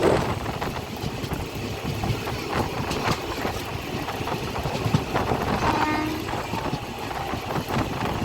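Passenger express train running on the rails, heard from on board: a steady rumble with repeated wheel clacks over rail joints. A short faint tone sounds a little past the middle.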